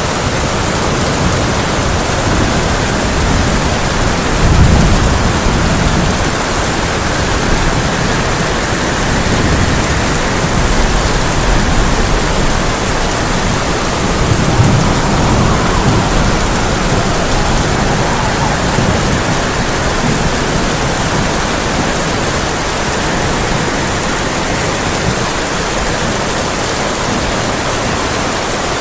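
Heavy rain falling on a tin roof, a steady dense hiss, with low rumbles of thunder swelling about four seconds in and again about fourteen seconds in.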